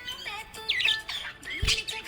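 Pet budgerigar chirping in quick, warbling bursts, over steady background music.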